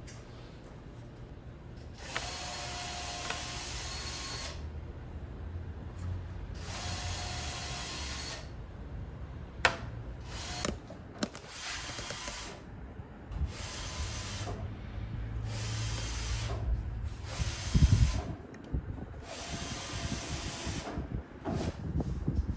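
Power drill-driver running in repeated bursts of one to two and a half seconds, some with a steady whine, with sharp clicks and knocks between the bursts.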